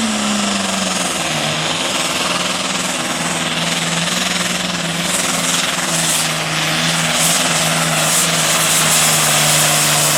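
Super Farm class pulling tractor's diesel engine running hard under load down the track, a loud steady drone over a dense hiss. Its pitch sags a little in the first second, then holds steady.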